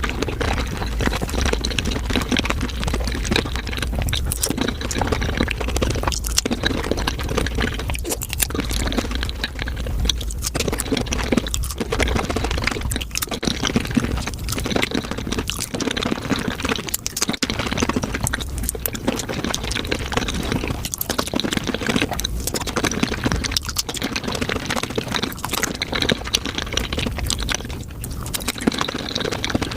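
Close-miked eating sounds of raw shrimp, sped up: a dense, unbroken run of wet chewing, smacking and slurping clicks. A low hum sits under the first half.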